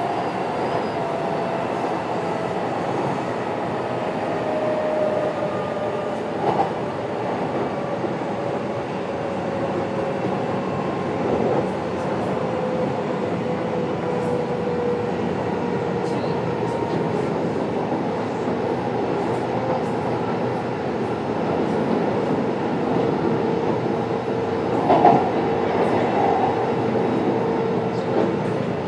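Interior running sound of a Kintetsu Minami Osaka Line local electric train: steady wheel and track rumble with a few knocks, the loudest near the end. Over it a motor whine falls slowly in pitch as the train loses speed.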